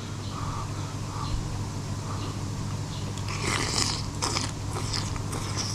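A person chewing a mouthful of food close to the microphone, with a run of crisp crunches from about halfway through.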